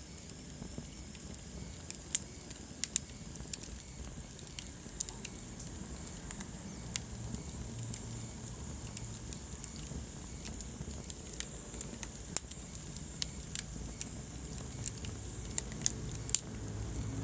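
Wood-burning fireplace crackling, with scattered sharp pops over a low steady rumble of the flames.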